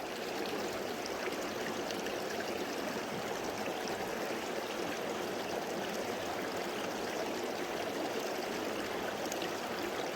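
Creek water flowing and babbling steadily.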